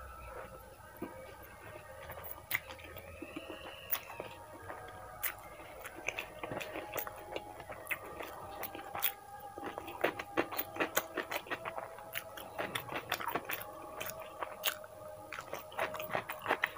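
Chewing mouthfuls of masala Maggi instant noodles, with many wet mouth clicks and smacks.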